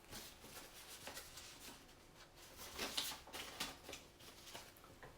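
Faint scratching and rustling of writing on paper, with a few light taps, a little louder about three seconds in.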